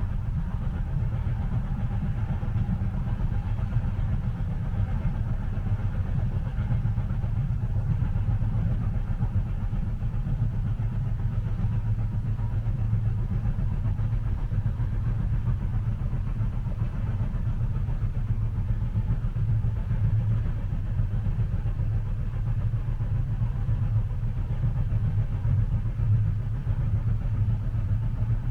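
Steady low rumble of a train in motion, heard from inside the passenger cabin.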